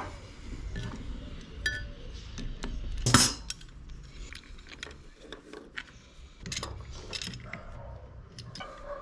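Light clinks and small handling noises of hard objects, with one louder, short noisy burst about three seconds in.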